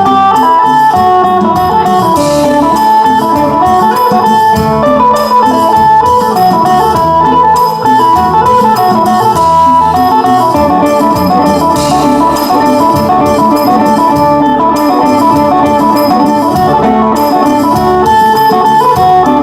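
Isan phin music: a plucked, electric-sounding phin lute plays a quick, lively melody over bass and a steady drum beat.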